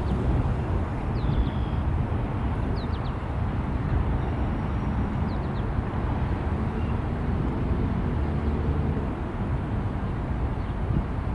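Steady low rumble of a freight train rolling past, with a few short, faint high chirps over it.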